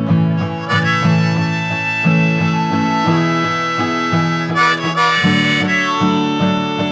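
Harmonica and strummed acoustic guitar playing the closing instrumental of a folk song. The harmonica comes in about a second in with long held notes over a steady strum.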